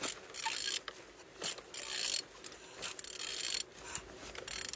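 A removed used engine being turned over in repeated strokes, its internals and the turning tool giving short bursts of mechanical rattling and clicking, with one sharp click near the end. The engine turns freely.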